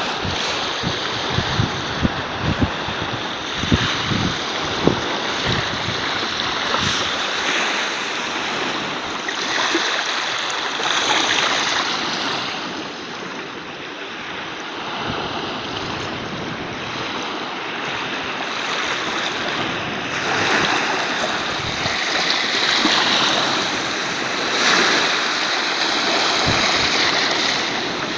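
Sea of Azov waves washing onto the shore, swelling and easing every few seconds, with a few short low thumps of wind hitting the microphone in the first few seconds and once near the end.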